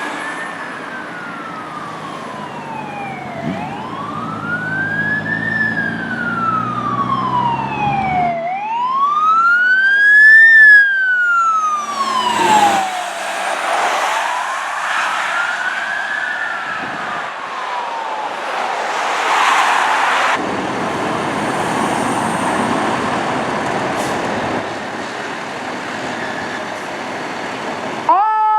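Fire apparatus responding under a wail siren that rises and falls slowly, about once every five seconds, over its engine rumble. It is loudest just before halfway as it passes, then gives way to a broad rush of road noise as it moves off.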